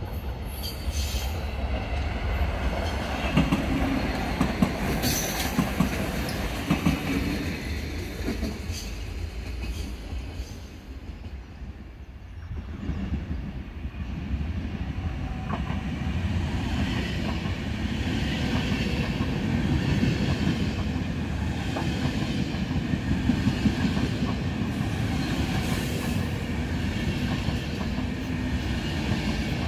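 An electric multiple unit runs past on the far tracks with some wheel squeal. After a short break, a train of Intercity coaches rolls along the platform, its wheels rumbling and clicking over the rail joints.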